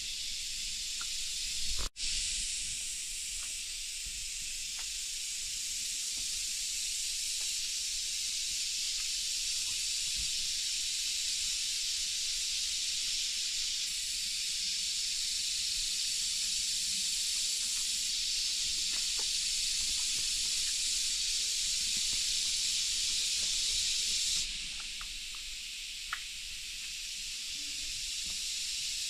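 Steady high-pitched hiss of rain with a few faint ticks. It briefly cuts out about two seconds in, and drops suddenly in level near the end.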